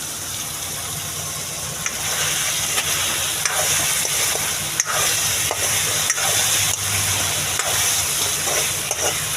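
Potato, eggplant and long-bean sabzi sizzling as it fries in a pan, with small clicks and scrapes of a spoon stirring it and a low steady hum underneath.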